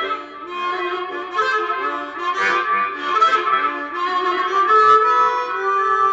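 Harmonica playing a blues fill between sung lines: a run of short changing notes, often two or three sounding together, then settling into one long held note near the end.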